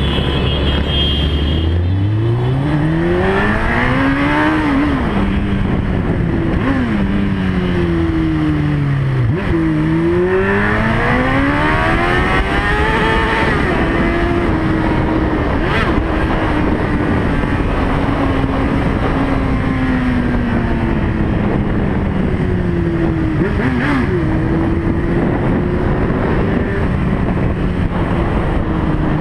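Motorcycle engine pulling away from a low idle and accelerating through the gears, its pitch climbing and dropping at each shift, then holding at a steady cruise and picking up again near the end.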